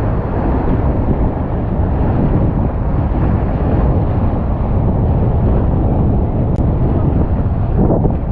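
Wind buffeting the camera's microphone: a loud, steady, low rumbling rush.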